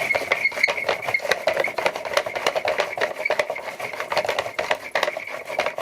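Homemade washing-machine generator being cranked back and forth by hand: a rapid, continuous rattling clatter of many fast clicks with a steady high tone underneath.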